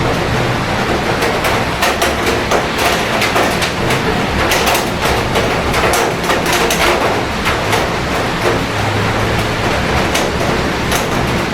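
Steady heavy rain with many sharp ticks of drops striking hard surfaces close by, over a low rumble of city traffic.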